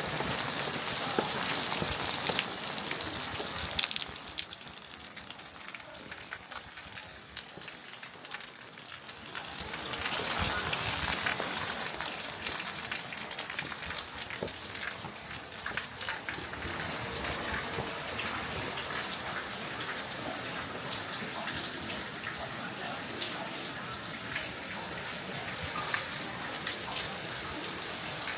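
Steady rain, with drops pattering close by and rushing, gushing water. It eases for a few seconds about four seconds in, then swells again around ten seconds in.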